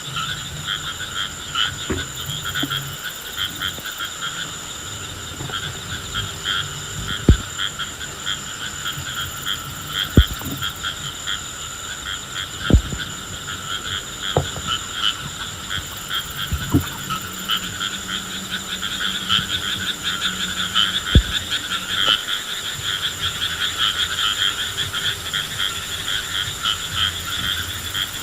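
Frogs calling in a dense, continuous chorus of rapid pulsing trills. About six sharp knocks cut through it at irregular intervals.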